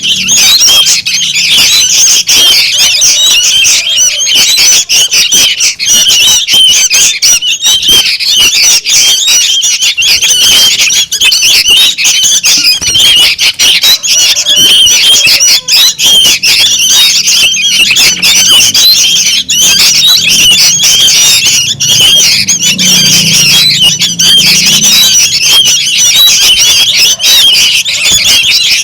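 Young sooty-headed bulbuls chattering noisily: a dense, unbroken chorus of many short, high, overlapping calls. It is the kind of call played as a lure to draw bulbuls in.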